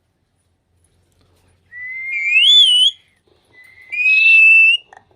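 A parrot whistling two long notes. The first starts about two seconds in, slides up and wavers at the top; the second follows after a short pause, rising slowly and then held.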